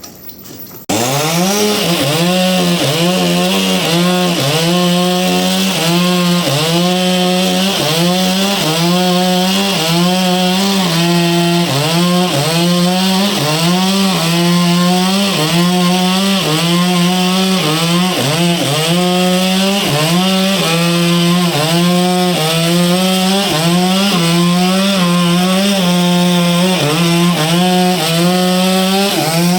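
Chainsaw engine running under load as it cuts into a log, its pitch dipping and recovering about once a second. It starts abruptly about a second in.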